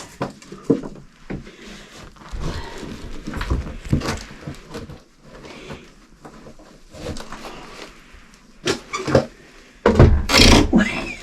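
Ash being raked out with a scoop and tipped into a bucket: irregular scrapes and knocks, with a loud rushing scrape about ten seconds in.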